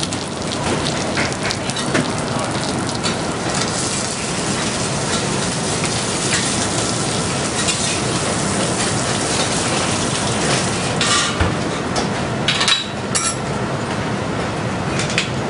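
Steady sizzling hiss of food frying in a hot pan, with scattered clicks and knocks of kitchen utensils.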